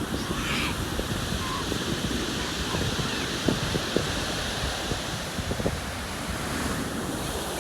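Wind buffeting the microphone in irregular gusts over the steady wash of sea waves breaking on the shore.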